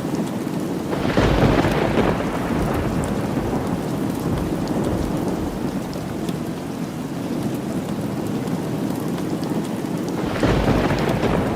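Steady rain falling, with two rolls of thunder: one about a second in and another near the end.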